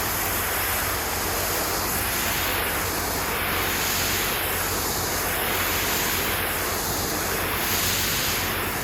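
High-pressure water spray from a pressure washer blasting a building facade: a loud, steady hiss with a sweeping rhythm that shifts in tone about once a second, over a steady low hum.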